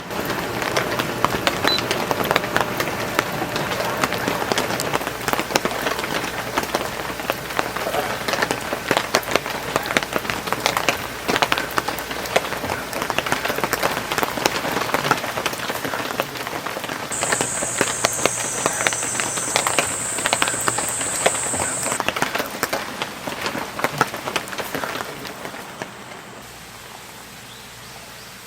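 Heavy rain falling, a dense patter of drops on the tent. A thin high tone sounds for about five seconds past the middle, and near the end the patter gives way to a quieter, even hiss.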